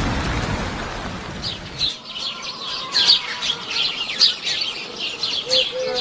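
Small birds chirping: many short, quick chirps, after a rushing noise fades out over the first two seconds.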